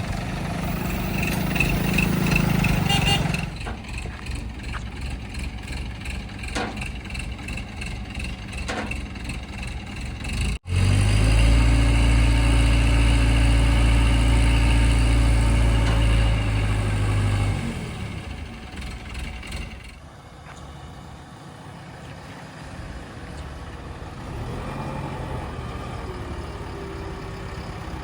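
Heavy diesel engines of earthmoving machinery running. About ten seconds in there is an abrupt break, then a much louder, steady low engine drone for about six seconds before it drops back to a quieter engine rumble.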